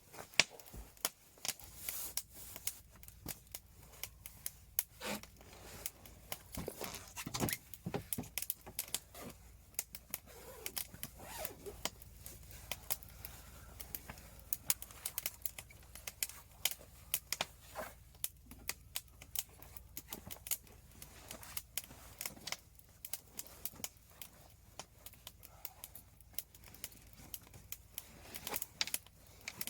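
Wood fire crackling, with many sharp irregular pops and snaps over a low steady rumble.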